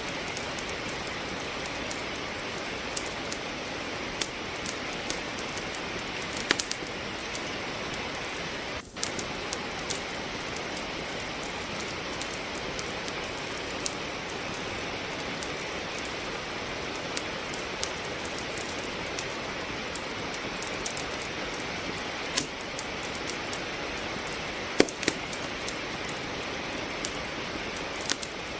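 Steady rain hissing together with a wood fire crackling in a fireplace: a constant even wash of rain with scattered sharp pops of burning logs, a few louder ones about six seconds in and near the end. The sound dips for a moment about nine seconds in.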